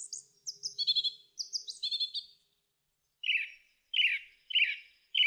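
Birds singing: a quick run of high, falling chirps, then after a short pause a lower phrase repeated four times, about two-thirds of a second apart.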